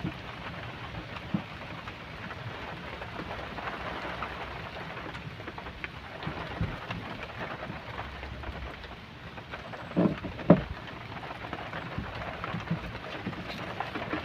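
Steady rain falling, an even hiss, with a few sharp knocks, two louder ones close together about ten seconds in.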